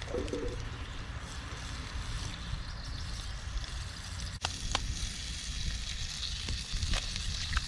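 Breakfast food sizzling as it fries in a pan, with a few light clicks and taps.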